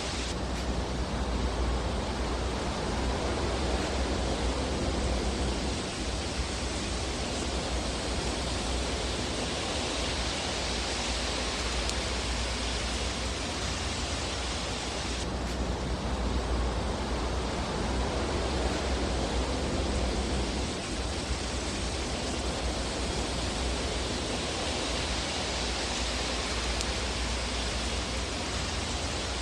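Fire burning in a fireplace, a steady dense hiss and rush of flames that swells and eases slowly.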